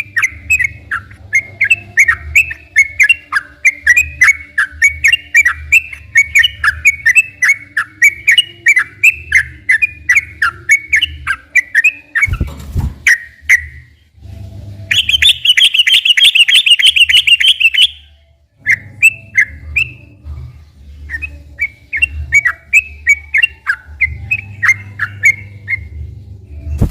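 Yellow-vented bulbul (trucukan) singing a long run of rapid chirped notes, breaking off about halfway with a low thump, then a dense, higher buzzing trill for about three seconds before the quick chirps resume. A low steady hum runs underneath.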